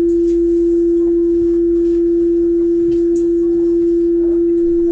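Steady electronic warning tone from an Alstom Citadis 402 tram, a single loud pitch held without a break.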